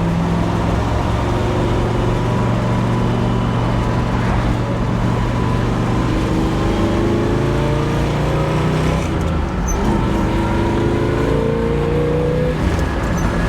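A 396 cubic-inch big-block V8 in a 1967 Chevrolet Impala SS, heard from the open convertible while driving. It runs steadily at first, then pulls harder with its note rising for about six seconds before falling away near the end.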